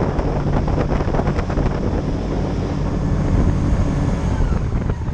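Airboat under way: its engine and air propeller running steadily at speed, with wind buffeting the microphone.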